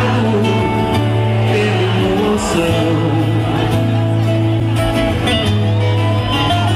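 Live band music at a concert: guitar and a strong, steady bass under held notes, with singing.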